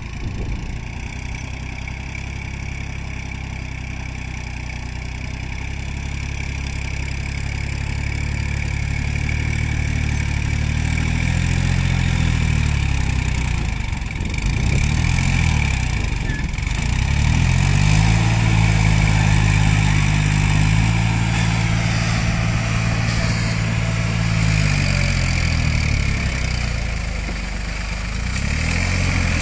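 Diesel engine of a 47 hp New Holland tractor running on a field trial run, its engine speed rising and falling several times. It grows louder through the first half and stays loudest from about halfway to near the end.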